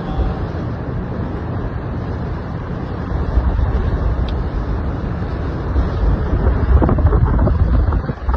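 Strong storm wind gusting and buffeting the microphone in a low, steady rumble that swells louder in the second half.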